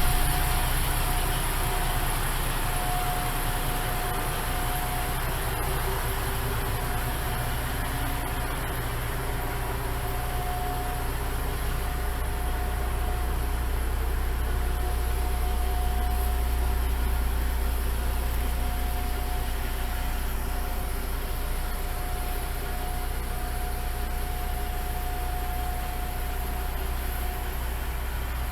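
Diesel railcar engine idling steadily: a low hum with a faint higher whine that fades in and out.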